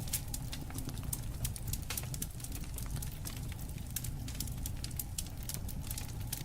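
Campfire burning, the wood crackling with many sharp irregular pops over a steady low rumble of the flames.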